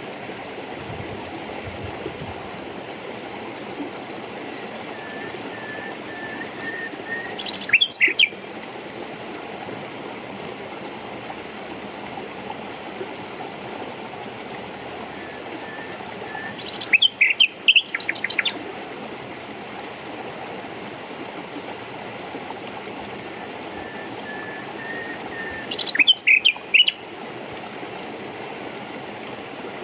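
A songbird singing three phrases about nine seconds apart over steadily running water. Each phrase opens with a soft run of even notes and ends in a brief loud burst of quick high notes.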